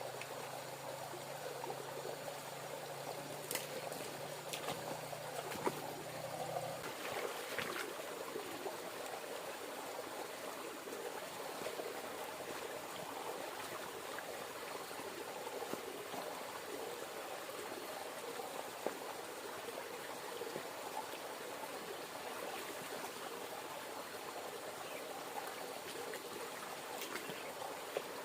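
River water flowing and trickling steadily, with a few faint clicks. A low steady hum underneath stops about seven seconds in.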